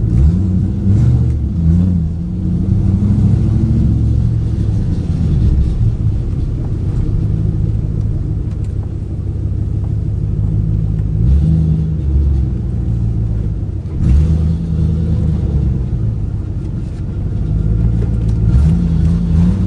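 2008 Ford Mustang GT's 4.6-litre three-valve V8 running while driving, its pitch rising and falling several times as it accelerates and eases off. It is misfiring, with five coil packs that the dealer reported bad.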